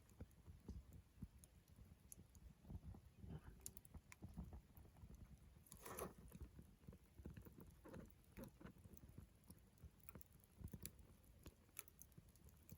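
Wood campfire crackling faintly: scattered small pops and ticks of burning wood, with one louder pop about six seconds in.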